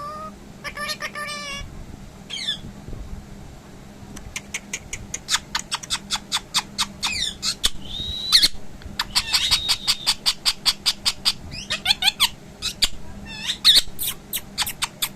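Pet parrot calling: long runs of short sharp chirps at about five a second, broken by a few longer wavering whistles.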